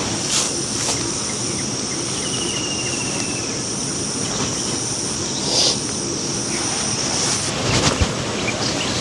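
Steady outdoor rushing, like running water or wind, with a steady high-pitched buzz that stops about seven seconds in. A few faint knocks come near the middle and near the end.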